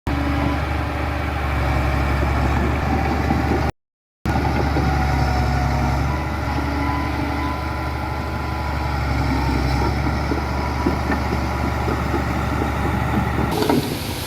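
Heavy diesel engine of a construction machine running steadily with a strong low hum. The sound drops out completely for about half a second near four seconds in, and just before the end it gives way to a wind-like rush.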